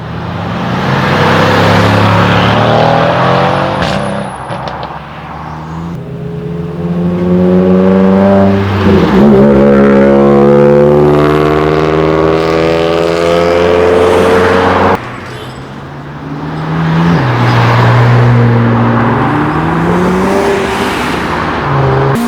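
Modified cars driving away and accelerating hard, one after another, with loud exhausts; engine pitch climbs steadily as each revs up, with a brief dip about nine seconds in, then stops suddenly about fifteen seconds in before another car revs up near the end.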